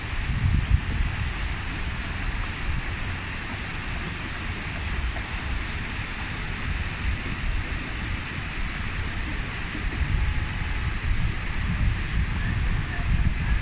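Steady rush of falling or flowing water, with wind buffeting the microphone in low, uneven gusts.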